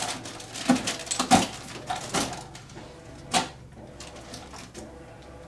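Foam packing being worked loose from cardboard: a few sharp squeaks, scrapes and rustles of foam against cardboard, the loudest about a second in and again past three seconds.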